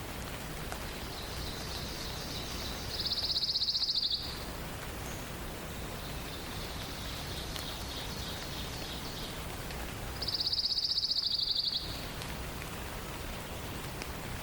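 A songbird singing a rapid, high trill twice, about seven seconds apart, each trill lasting over a second and preceded by a fainter high phrase, over a steady hiss of forest ambience.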